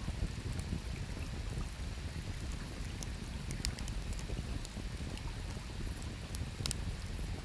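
Wood campfire crackling, with scattered sharp pops every second or so, over a steady low rush of flowing river water.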